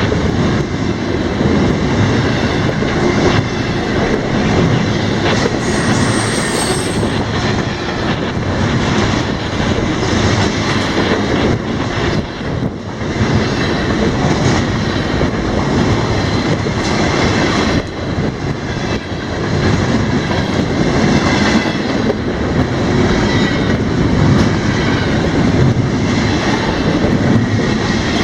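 Freight cars of a CSX intermodal train rolling past at track side: a steady loud rumble with the clatter of wheels over the rail. A brief high wheel squeal comes about six seconds in.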